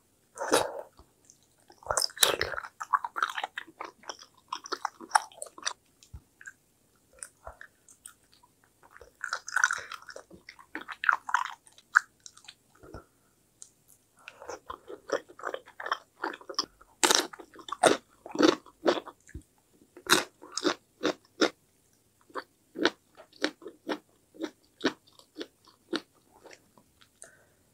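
Close-up mouth sounds of someone eating spicy mala tteokbokki: chewing chewy rice cakes and noodles with wet, sticky clicks and smacks. The chewing comes in bursts with short pauses and grows sparser near the end.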